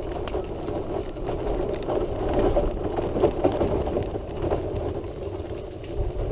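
A noisy wheelchair rolling along a hard-surfaced path: a steady rolling noise with small rattles and clicks running through it.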